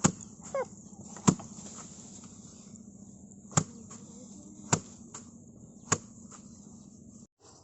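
A series of sharp knocks, five of them spaced roughly a second apart, over a steady low hum; the sound cuts off abruptly near the end.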